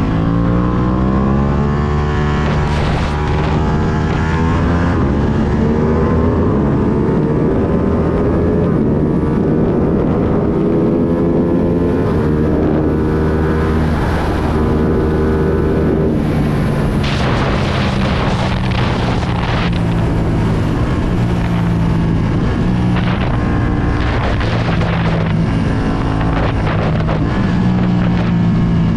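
A 2020 Ducati Panigale V2's 955 cc L-twin engine running through a full Akrapovic exhaust while the bike is ridden: the pitch climbs slowly with engine speed for much of the time, then drops back about two-thirds of the way through, and climbs again near the end. Wind gusts hit the microphone when the engine note drops back.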